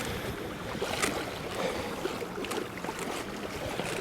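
Wind and choppy sea water washing against a kayak, a steady rushing noise with a few light slaps of water against the hull.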